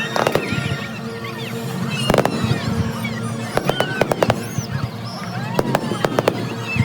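Fireworks display: shells bursting in a series of sharp bangs, with whistling and crackling between them, over steady music playing in the background.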